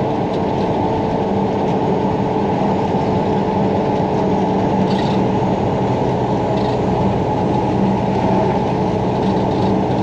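Dump truck's diesel engine droning steadily under way, heard from inside the cab, with the rumble of the truck on a rough haul road and a few faint rattles.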